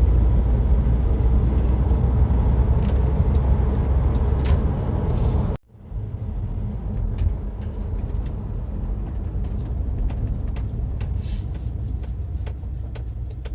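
Steady low rumble of road and engine noise heard from inside a moving vehicle. It cuts out for an instant a little past halfway and comes back slightly quieter.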